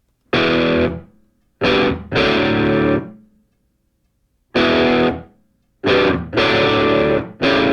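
Music: distorted electric guitar chords played in separate stabs that start sharply and stop dead, with short silent gaps between them.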